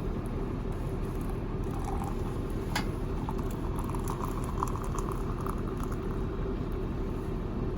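Steady low rumble of an idling truck engine heard inside the cab, with a single sharp click about three seconds in.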